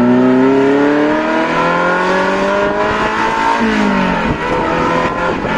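Ferrari Mondial 3.2's V8 through a custom exhaust, accelerating, its note rising steadily for about three seconds, then falling at a gear change about three and a half seconds in and running on steadily, heard from inside the cabin.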